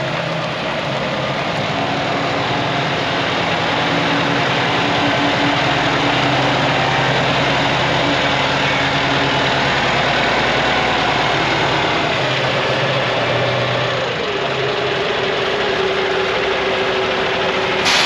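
Cummins ISX 15-liter diesel engine of a tractor truck running, faster and louder through the middle, then dropping back to a steady idle about two-thirds of the way in. A sharp click at the very end.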